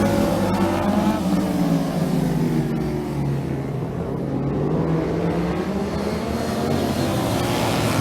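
Several racing motorcycle engines running together, their pitch rising and falling as they rev.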